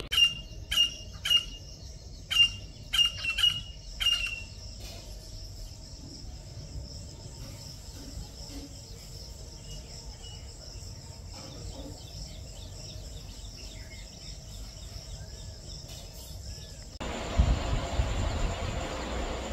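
Birds giving a quick series of about eight short, sharp calls over the first four seconds, over a steady high insect drone that runs on. Near the end the background turns to a louder hiss with a low rumble.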